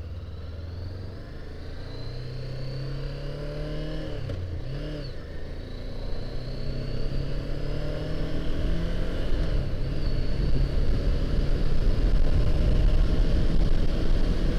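Honda CBR500R's parallel-twin engine pulling away and accelerating, its pitch climbing, dipping briefly at a gear change about four seconds in, then climbing again. Wind noise builds as speed rises.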